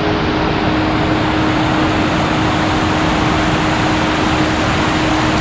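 Loud, steady rush of heavy rain, with a single held musical tone sounding over it.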